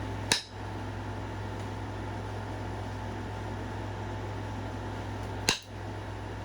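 Two sharp knapping strikes on a stone point, about five seconds apart, as flakes are driven off to thin its base. A steady low hum of a fan or air conditioner runs underneath.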